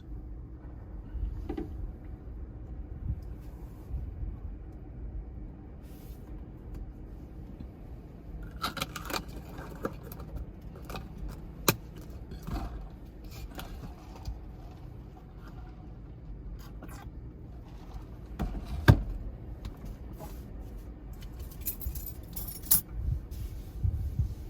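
Low steady rumble of heavy typhoon surf and wind, with scattered sharp clicks and rattles. The clicks cluster about a third of the way in and again near the end, and there is one loud knock a little past the middle.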